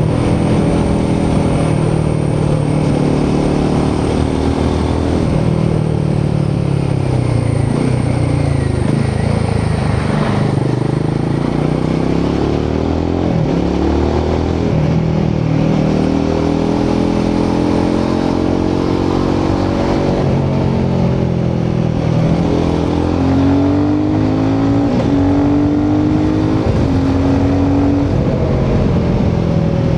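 Royal Enfield Himalayan 450's 452cc single-cylinder Sherpa engine and exhaust under way, the engine note climbing through the revs and dropping back several times as it is ridden through the gears.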